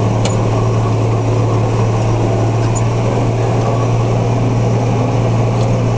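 Large farm tractor's diesel engine running steadily, a constant low drone.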